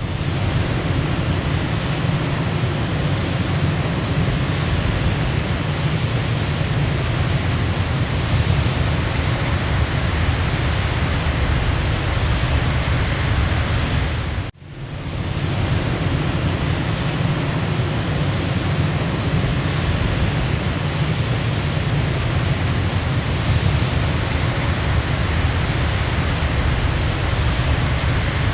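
Waterfall: a steady, loud rush of falling water. The sound drops away briefly about halfway through and swells back in.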